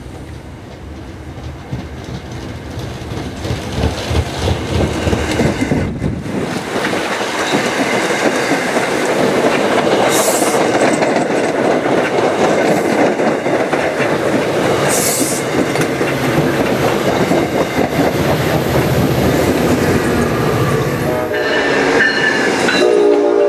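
MBTA commuter rail train of bi-level coaches rolling past on the station track, its wheel and rail noise building and then holding loud. Near the end a train horn sounds a long chord as a train nears a flashing grade crossing.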